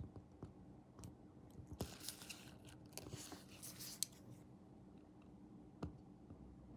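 Faint small handling noises of a scale-model build: light clicks and taps of tools and small kit parts, with a couple of seconds of scratchy rustling in the middle. A sharper click comes about four seconds in and another near six seconds.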